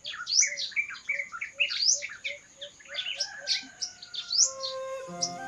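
Birds chirping, with many quick rising chirps one after another and a softer, lower note repeating about three times a second. Music comes in near the end.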